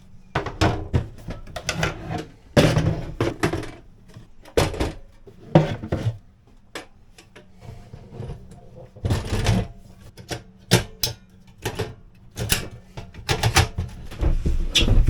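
Cookware and utensils being handled during meal preparation: a run of irregular knocks, clacks and clicks, with a few louder clatters.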